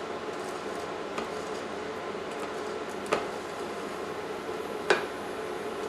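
Wooden spoon stirring melting sugar in a saucepan, knocking lightly against the pan three times, the last knock the loudest, over a steady hum.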